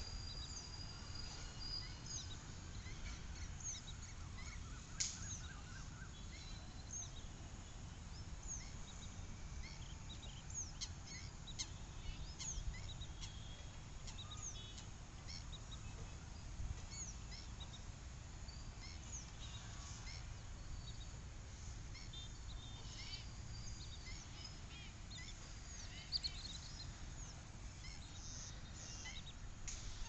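Birds calling: a scatter of short, high chirps and calls throughout, over a steady low rumble.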